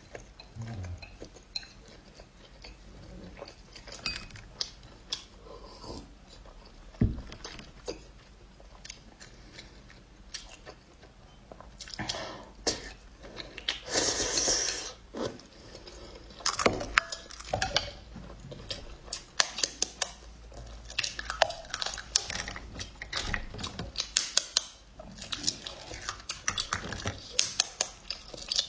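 A person eating close to the microphone: chewing and biting noodles and eggs, with utensils clicking against a dish, and a longer hissy sound of about a second near the middle.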